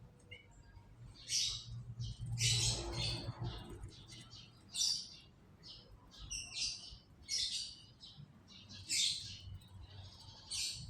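Canaries chirping in short high bursts, about one every second, with a brief low rumble beneath them around the third second.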